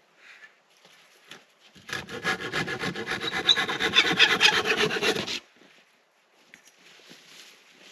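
Hand saw cutting through wood in a quick, even run of strokes that starts about two seconds in and stops abruptly about three and a half seconds later.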